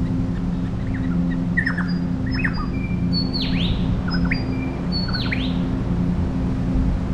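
Wild bird calling: short whistles and sharp down-sweeping notes, one phrase given twice, over a steady low drone.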